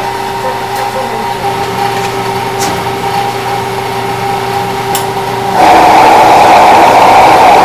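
A steady mechanical hum with a couple of held tones, which about five and a half seconds in suddenly becomes a much louder, rushing noise.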